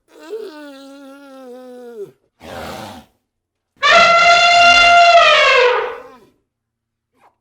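An animal's long drawn-out calls: a quieter wavering call first, a short breathy burst, then a louder call held on a high steady pitch for about two seconds that drops off at the end.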